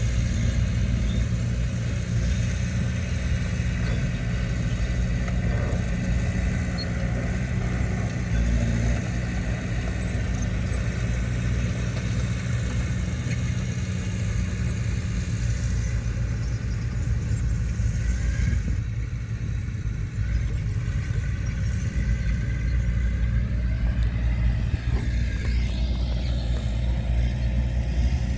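Heavy diesel engine of earthmoving machinery running steadily, a low constant drone, with some change in pitch in the last few seconds.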